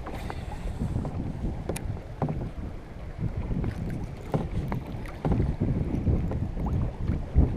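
Wind buffeting the microphone in a low, gusting rumble, with a few light knocks scattered through it.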